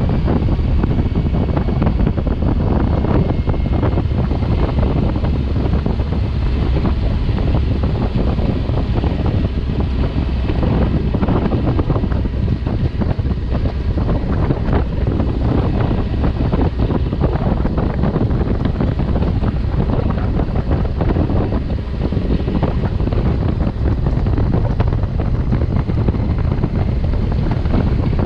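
Wind buffeting the microphone of a motorcycle rider at speed: a steady, loud rush heaviest in the low end, with no clear engine note over it.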